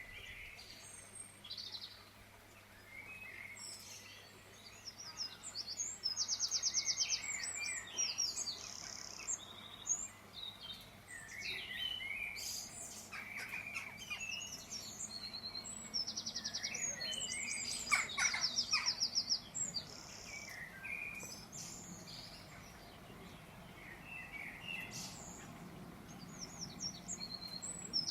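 Small birds chirping and calling, with short, fast, high trills coming every few seconds.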